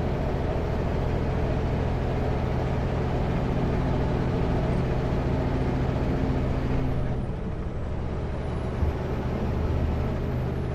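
Kenworth W900L semi-truck's diesel engine running steadily at road speed, with a low hum and road noise. The sound eases off and gets a little quieter about seven seconds in.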